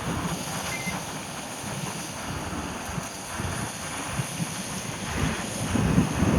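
Steady hiss of heavy rain and wind buffeting the microphone, with a low rumble swelling near the end.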